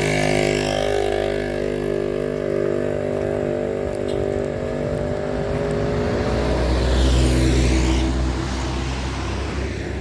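Komatsu HD785-7 mining haul truck's V12 diesel engine running as the truck drives past, its low rumble swelling to its loudest about seven to eight seconds in, then fading.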